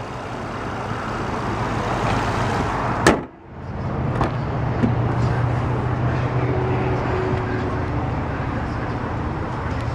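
A single sharp slam of a car panel about three seconds in, over steady vehicle and traffic background noise with a low steady hum.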